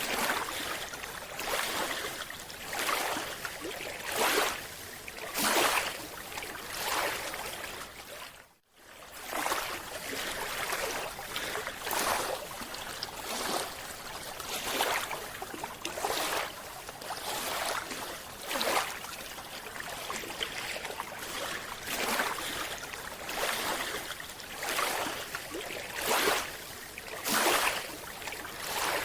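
Scuba diver's breathing heard underwater: rushing and bubbling from the regulator and the exhaled bubbles, swelling in regular surges about every second and a half. There is a sudden break about nine seconds in, and then the surges carry on.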